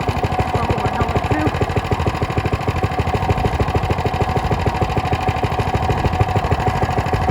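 Motorcycle engine idling steadily, its firing pulses coming in an even, unchanging rhythm with a steady high tone above them.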